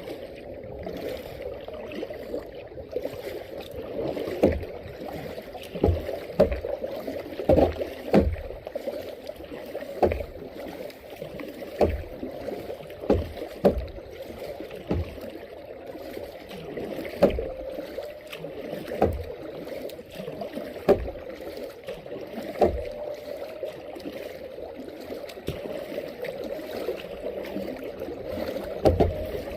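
Kayak being paddled: sharp paddle strokes or knocks come every one to two seconds over a steady wash of water.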